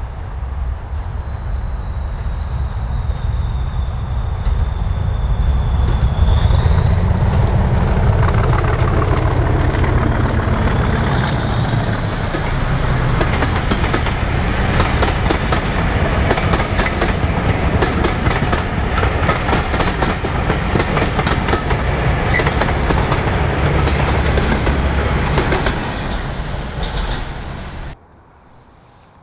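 Heritage passenger train passing close by: a deep rumble, with a high thin whine that sags slightly and then climbs steeply in pitch. The coaches' wheels then clatter rapidly over the rail joints until the sound cuts off suddenly near the end.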